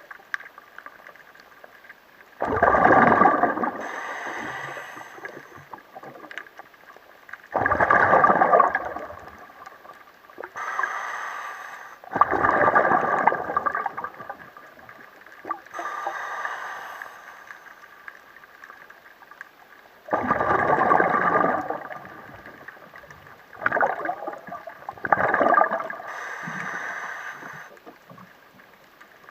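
Water gurgling in bursts about every four to five seconds, over a faint steady hum.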